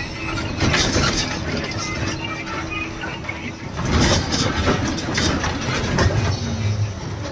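A truck running on the road, heard from inside the cab: a steady engine drone with road noise and rattles, and a faint hum that drops away about halfway through.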